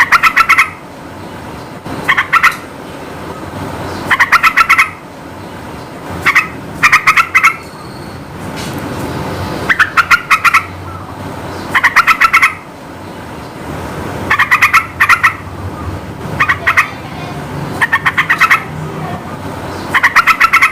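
Sooty-headed bulbul (trucukan) singing: short bursts of rapid bubbling notes, repeated about every two seconds, over a steady low background rumble.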